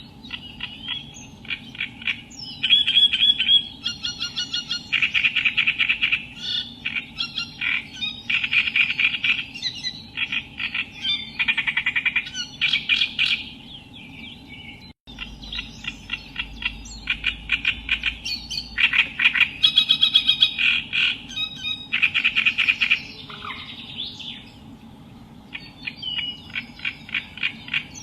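Reed warbler (Acrocephalus) singing: a continuous run of chattering phrases, each a fast series of repeated harsh notes lasting about a second, with short pauses between them. The song cuts out for an instant about halfway through, then carries on.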